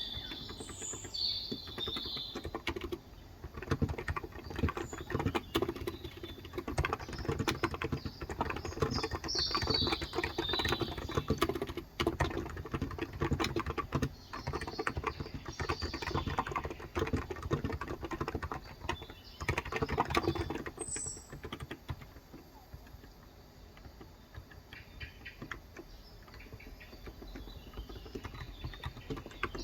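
Steady typing on a Cox Endeavor electrostatic capacitive tenkeyless keyboard with light 35 g keys: a dense run of soft keystrokes that thins out about two-thirds of the way through. Birds chirp now and then, with a few short high calls.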